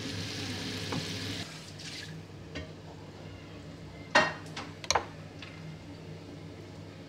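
Ceramic dinner plates and dishes clinking as they are set out: two sharp clinks about a second apart, after a soft hiss at the start.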